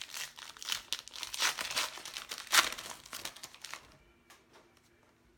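Plastic wrapper of a Donruss baseball card pack crinkling and tearing as it is opened, loudest about two and a half seconds in, then dying away to a few faint rustles after about four seconds.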